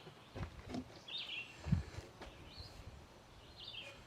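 A small bird repeating a short high chirp about once a second, over faint rubbing and a few light knocks, with one soft thump a little under two seconds in, as plumber's putty is wiped off a sink rim.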